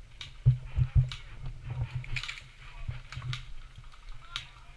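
Footsteps walking with irregular thuds, mixed with short clicks and rattles of carried gear.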